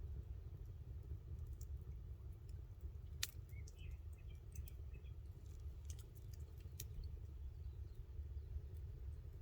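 Campfire crackling: scattered sharp pops over a low steady rumble, with one louder pop about three seconds in.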